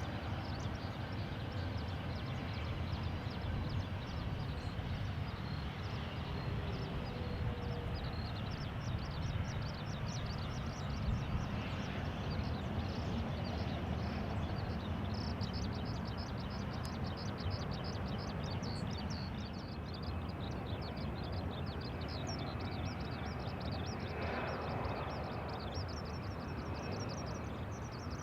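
Boeing 737-800's CFM56-7B jet engines running at idle as the airliner taxis in to its stand: a steady low rumble, with a rapid high chirping over it at times.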